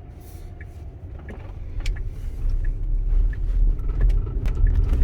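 A Tesla making a noise while its wheel is turned: scattered sharp clicks over a low rumble that gets louder about two seconds in. The noise comes with steering that feels stiff.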